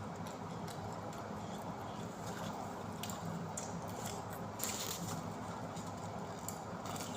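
Chewing and mouth sounds of someone eating pizza: soft wet smacks and small clicks scattered through, the sharpest a little past halfway, over a steady low hum.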